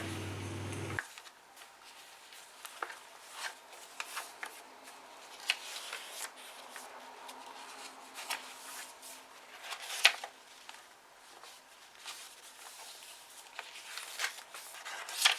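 Paper and card rustling, with irregular soft taps and clicks as a handmade paper folder and booklets are handled. The sharpest tap comes about ten seconds in, and another near the end.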